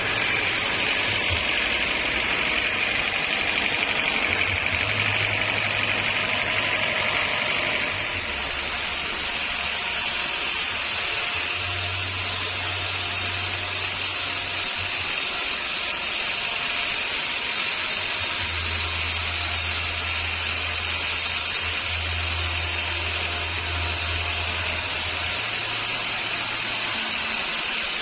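Sawmill machinery running steadily, a continuous machine whine and hiss; about eight seconds in the sound turns brighter and then stays even.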